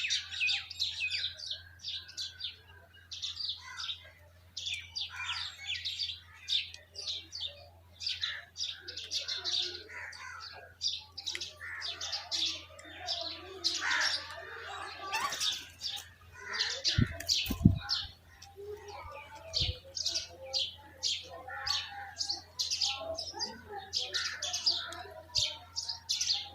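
Many small birds chirping rapidly and continuously in short, high chirps, over a steady low hum. A couple of low thumps come about two-thirds of the way through.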